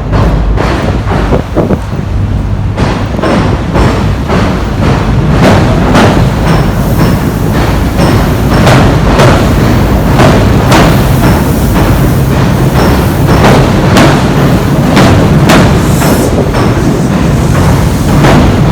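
Tobu Railway electric train crossing a steel railway bridge overhead: a loud, continuous rumble with many rapid, uneven clanks of wheels over the rail joints and bridge deck.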